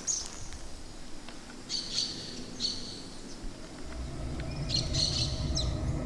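Birds chirping in short bursts of high calls, three times. A low rumble comes in about halfway through.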